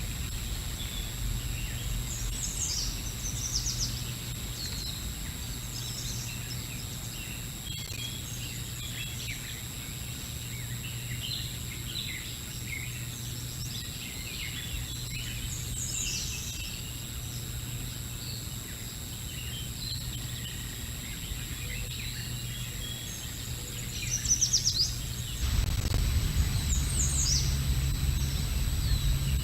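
Wild birds calling outdoors in short, high chirps and quick trills, scattered throughout, over a steady low hum from the nest-cam microphone. About 25 seconds in, a low rumbling noise grows louder.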